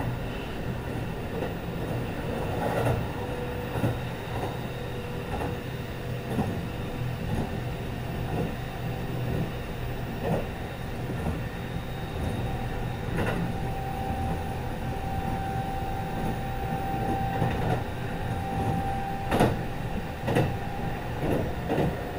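Kintetsu 22000 series ACE limited express running, heard from the deck inside a car: a steady rumble of wheels on rail with scattered clicks at rail joints. A steady high tone is held for several seconds early on, and another, higher one later.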